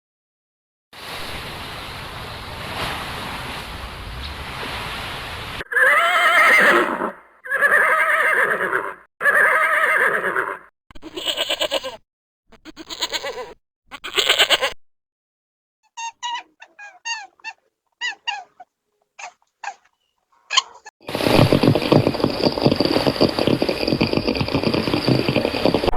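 A string of separate animal-call recordings with silent gaps between them. First a stretch of noise, then three long pitched calls and a run of shorter ones, then a quick series of high chirps, and near the end a dense, noisy burst of animal sound.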